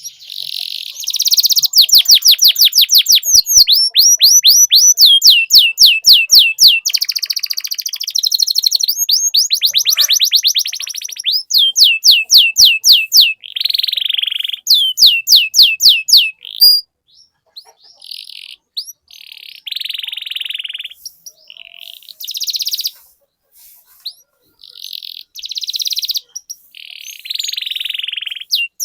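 Domestic canary singing a long rolling song: fast trills of repeated high sweeping notes, about seven a second. The trills run almost unbroken for the first half, then break into shorter phrases with pauses between them.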